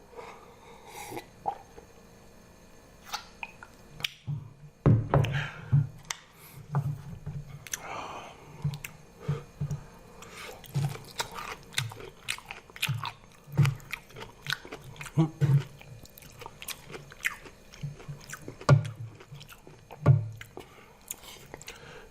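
A person eating noodles close to the microphone: irregular chewing, slurping and mouth noises, with soft knocks of the utensils.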